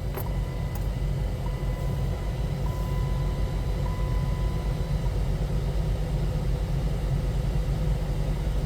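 A 2008 Dodge Caliber's four-cylinder engine idling steadily just after being started. A faint thin high electronic tone comes and goes over it.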